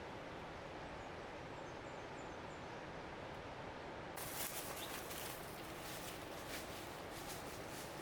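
Steady rushing noise of a waterfall, with a few faint high bird chirps in the first half. From about halfway, a run of rustling and small crisp clicks.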